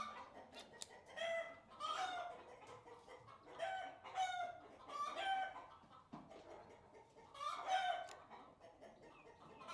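Chickens clucking and calling, a string of short calls about every second with brief pauses between.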